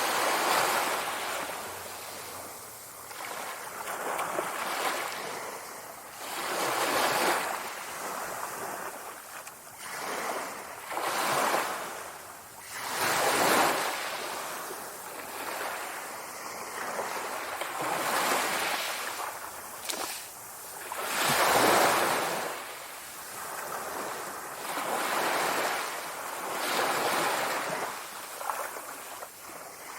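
Sea waves breaking and washing ashore, the surf swelling and ebbing every few seconds.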